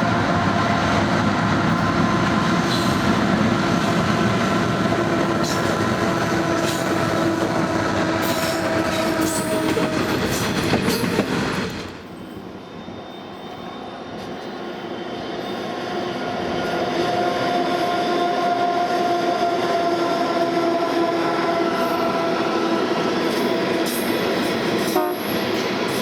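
Diesel locomotives hauling a coal train, their engines and the passing train giving a steady, loud drone with several held tones. It breaks off suddenly about halfway through, then a second train's sound builds up again.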